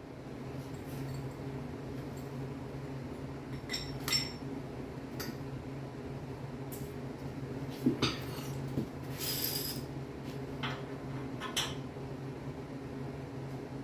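Scattered metallic clinks and taps of metal parts and tools being handled, over a steady low hum. A brief hiss comes about nine seconds in.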